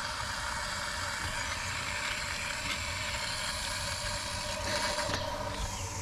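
Water main being turned back on after a repair: a steady hiss of water rushing through the line, over the low hum of an engine idling, with a single knock about five seconds in.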